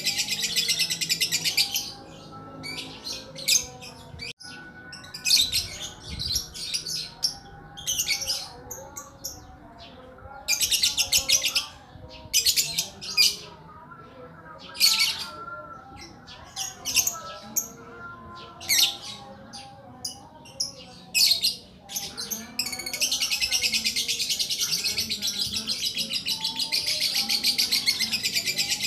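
Lakbet bird calling with a rapid, high-pitched pulsing trill. The trill is continuous at the start and again over the last six seconds, broken into short bursts in between, with softer, lower chirping beneath.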